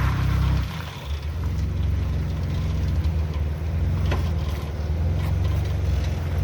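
Off-road Jeep engine running at low crawling speed, easing off briefly about a second in, with a few short knocks from the rocks.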